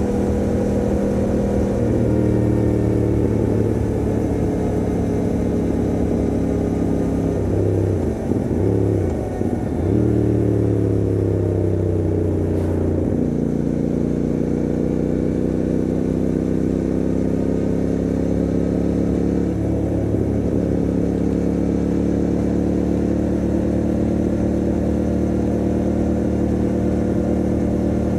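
Motorcycle engine running steadily while riding at cruising speed. Its note dips and picks up again twice, about eight to ten seconds in, drops once more near thirteen seconds, and shifts slightly around twenty seconds.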